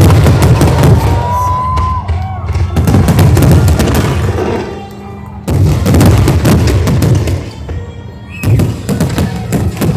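Fireworks going off in rapid succession: heavy booms and rumbling with crackling, and a brief whistle about a second in. The noise eases off around the middle and then picks up again.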